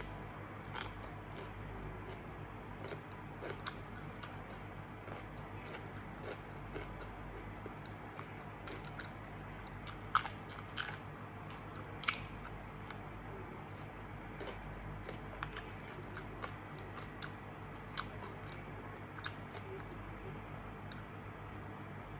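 Close-miked eating: irregular crunching, chewing and mouth clicks from eating grilled pork neck salad with raw vegetables, with a few louder crisp crunches about ten and twelve seconds in, over a steady low hum.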